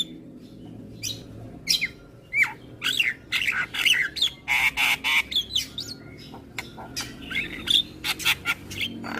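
Javan myna singing a rapid, varied stream of short gliding whistles and clipped chattering notes mixed with harsh rasping squawks, one longer rasp about halfway through.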